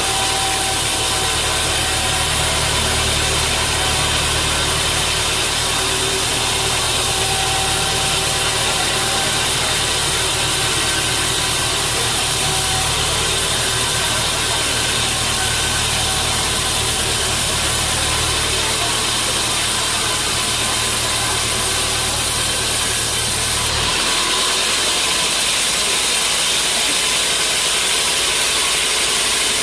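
Sawmill machinery running with a loud, steady engine hum and noise. The low hum drops away abruptly near the end.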